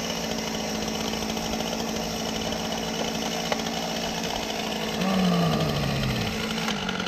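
Small engine running steadily at a constant pitch. About five seconds in it gets louder and its pitch slides down, as if slowing.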